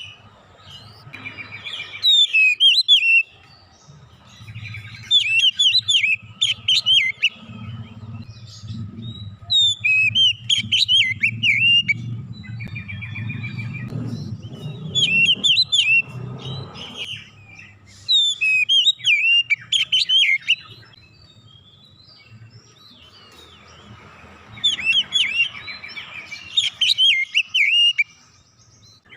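Oriental magpie-robin (kacer) singing in loud bursts of rapid, varied whistles and chirps, about six phrases a few seconds apart, its song packed with mimicked phrases. A faint low hum runs underneath through the middle.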